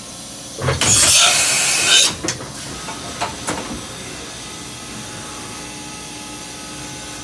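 A loud burst of air hiss lasting about a second, then a few clicks. After that the Matsuura H Plus 300 machining center's spindle runs with a steady, nice and quiet hum.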